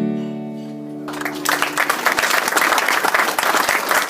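The final acoustic guitar chord of a song rings out, then about a second in an audience breaks into applause that keeps going.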